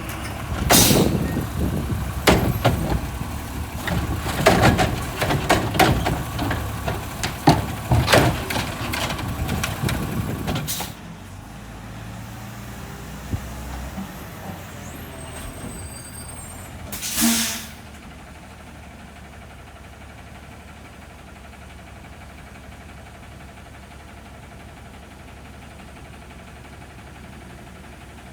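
Garbage truck at work: loud clattering and banging for about the first ten seconds, then only the truck's engine running low and steady. A short hiss of the air brakes comes a little past the middle.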